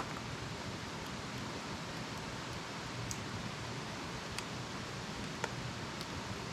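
Wood campfire burning: a steady hiss with a few sharp crackles of burning wood scattered through it.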